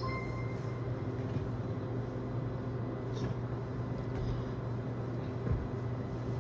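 Steady hum of a car driving, heard from inside the cabin: engine and road noise, with a short high beep at the very start.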